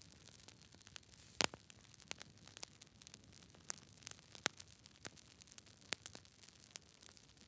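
Wood fire crackling: irregular sharp pops and snaps over a soft hiss, the loudest pop about one and a half seconds in.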